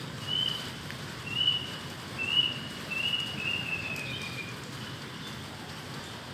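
A bird whistling a run of about five short, high, clear notes in the first four seconds, the last one longer and sliding down in pitch, over a steady hiss of falling rain.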